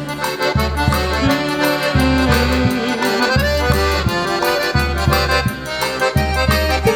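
Instrumental forró pé de serra music: an accordion plays the melody over a bass line pulsing in a regular beat, with steady high percussion ticks.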